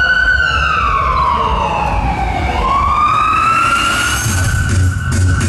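A loud siren wail that slides down in pitch for about two seconds and then rises back up, with a deep bass beat coming in about four seconds in.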